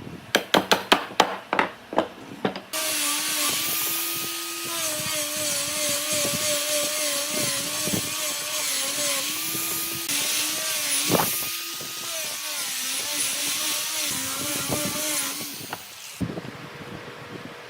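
A quick run of sharp taps on wood. About three seconds in, a power tool starts working the wood and runs for about thirteen seconds: a steady hiss over a motor whine whose pitch dips and recovers under load. It stops shortly before the end.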